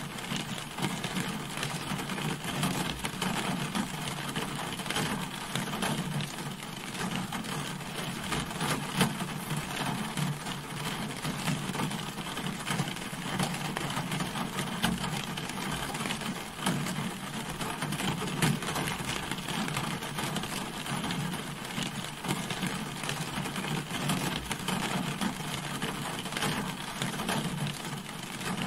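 Steady rain falling on a car, a dense patter of drops striking the body and roof, with some louder single drops now and then.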